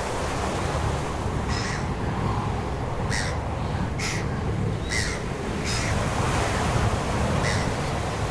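Short, harsh bird calls, about six of them a second or so apart, over a steady low rushing noise.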